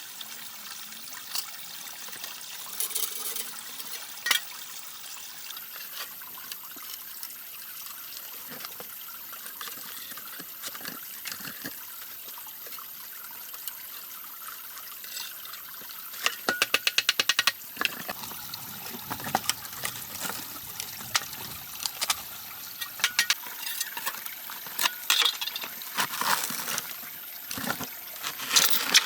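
Water trickling steadily, with scattered sharp clicks and knocks and a fast run of clicks a little over halfway through.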